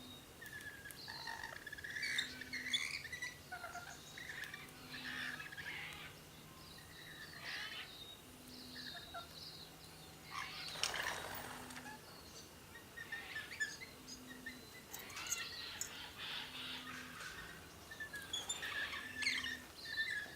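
Several birds chirping and calling over one another as they feed, in an uneven running chatter, with one louder, rougher sound about halfway through.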